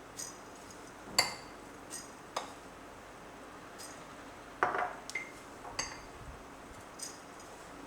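Kitchen utensils clinking against glassware and dishes: a run of about nine short, sharp, ringing clinks at irregular spacing, the loudest about a second in and just before five seconds.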